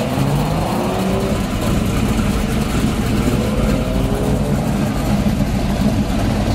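Car engine running as a custom classic car on big rims pulls away slowly across the lot, its revs rising near the start and again around four seconds, over a steady low engine rumble.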